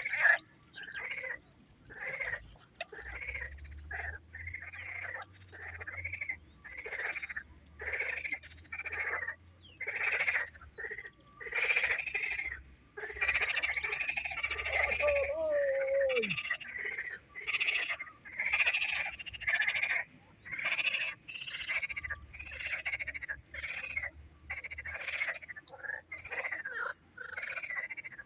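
Frogs croaking in a steady chorus, short calls repeating about one and a half times a second. About halfway through, a single short call slides down in pitch.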